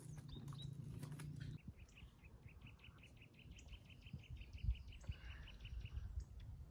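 A bird singing a fast trill of short, evenly spaced high notes, about seven a second, starting about a second and a half in and lasting some four seconds.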